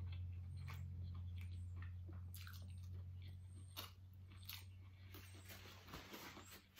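Close-miked chewing of a bite of twice-fried green plantain, with irregular wet mouth clicks and the smack of fingers being licked. A low steady hum runs underneath and fades out about halfway through.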